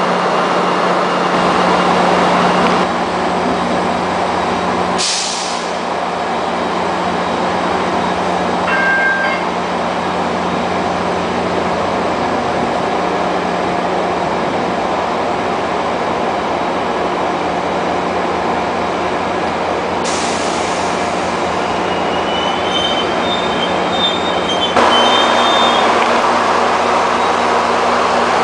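Passenger trains moving through a station: the steady rumble of rolling cars over a diesel locomotive's low drone. Short hisses come about five seconds in and again about twenty seconds in. Brief high wheel squeals come about nine seconds in and again near the end.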